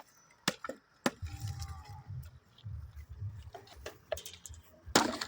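A few sharp, irregular knocks of a log being chopped through by hand, the loudest and longest one near the end, over a low uneven rumble.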